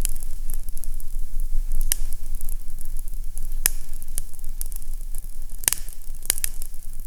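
Fireplace fire crackling, with scattered small ticks and a few louder sharp pops about two, three and a half, and six seconds in, over a low steady rumble.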